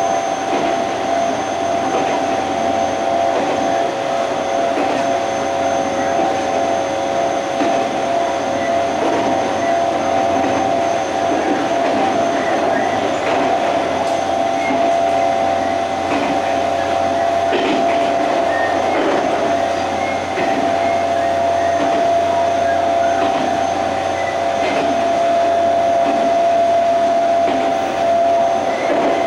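Interior running noise of an Odakyu 30000 series EXE Romancecar from its vestibule deck: a steady rumble of wheels on the rails with small rattles, under a steady hum of several tones, with the onboard shop's refrigerator running.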